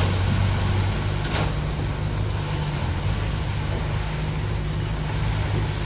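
Diesel engine of heavy earthmoving machinery running steadily with a low hum, with a brief sharp sound right at the start and a fainter one about a second and a half in.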